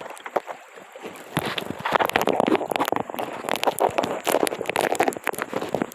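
Water splashing and sloshing around a kayak, with many irregular sharp clicks and knocks, loudest in the middle.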